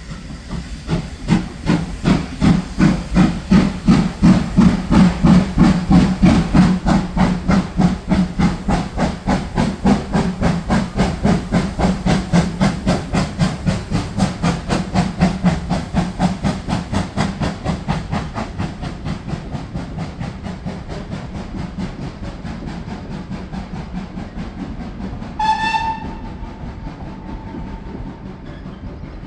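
Steam locomotive pulling away, its exhaust beats quickening as it gathers speed and then slowly fading into the distance. One short blast on the steam whistle near the end.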